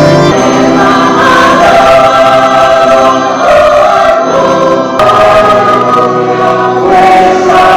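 Choir singing gospel music with keyboard accompaniment.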